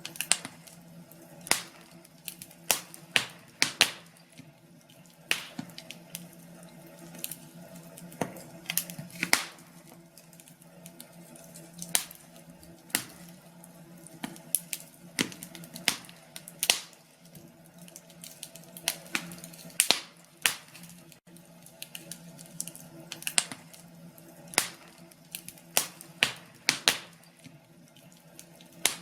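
Wood fire crackling in a fireplace: irregular sharp pops and snaps, one or two a second, over a faint steady low hum.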